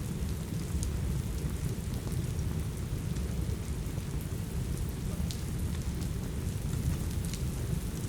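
Steady rain with a deep low rumble. A few sharp pops from a crackling wood fire come through now and then.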